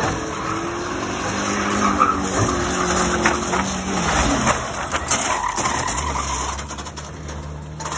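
Engines of banger racing cars towing caravans running and revving as they drive round the oval, their pitch rising and falling, easing off somewhat near the end.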